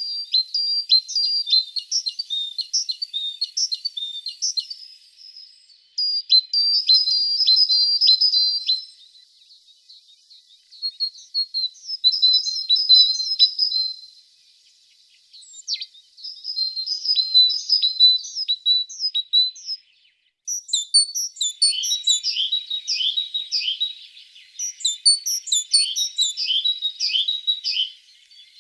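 Tits singing: quick high chirping phrases broken by short pauses, turning into dense overlapping chirping in the last third.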